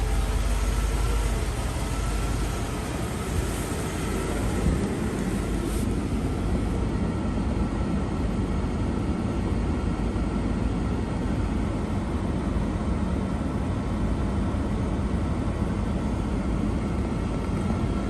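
1986 Mercedes-Benz 420SEL's 4.2-litre V8 idling steadily shortly after a cold start. The deep low rumble is heavier for the first couple of seconds, then settles into an even idle.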